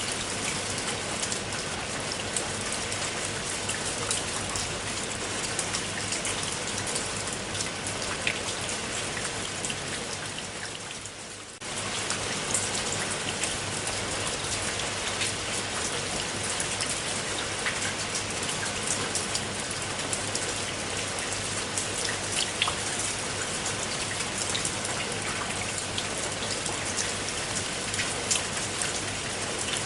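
Steady rain falling on a surface: an even hiss with many separate drop ticks. It fades a little and drops out for a moment about eleven seconds in, then comes straight back.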